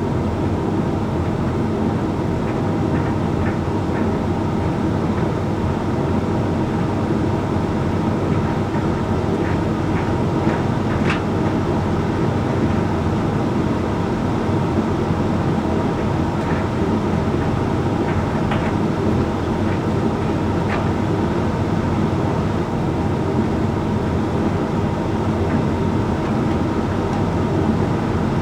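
Hoover Link X Care condenser tumble dryer running a Whites drying cycle: a steady hum and rumble of the turning drum, motor and fan, with a few light ticks.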